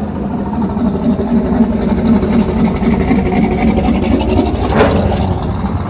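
Car engine running loudly at low revs, its exhaust pulsing steadily and swelling a little in the first second or two. There is a brief sharper noise near the end.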